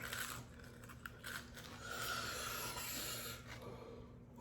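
Faint crunching and chewing of a fried spicy chicken nugget: a few short crackles, then a steady hiss lasting about a second and a half.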